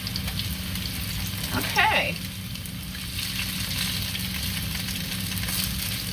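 Shredded-potato patties sizzling steadily in hot oil in a frying pan, with light crackles and the occasional scrape of a plastic spatula as they are checked and pressed.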